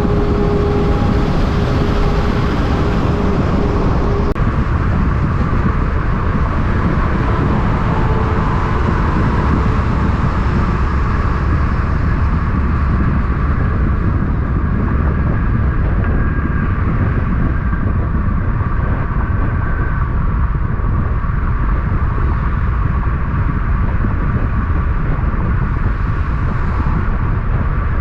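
Road traffic, a steady loud low rumble of passing vehicles. A steady tone in the first few seconds stops abruptly about four seconds in.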